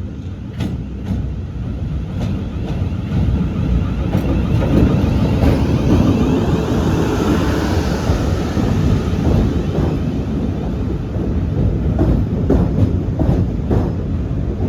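Class 450 Desiro electric multiple unit, two units coupled, rolling past as it pulls into the platform: a steady low rumble of wheels on rail, with clicks from the wheels over rail joints.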